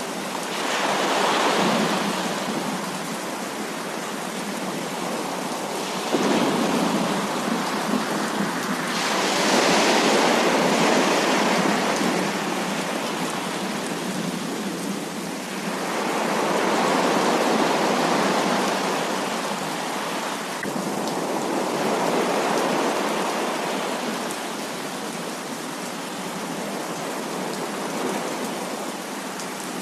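Heavy rain falling, a steady hiss that swells and eases in loudness every few seconds.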